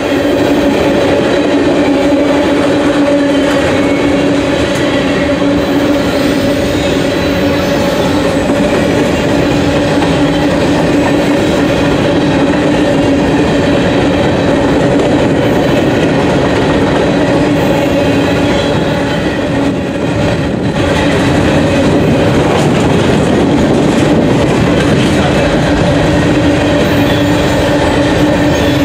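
Freight cars of a mixed freight train rolling past at speed: a continuous rumble and clatter of steel wheels on the rails, with a steady tone running underneath.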